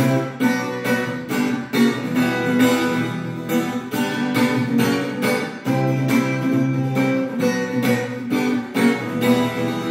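Acoustic guitar strummed in a steady rhythm, chords ringing with each stroke.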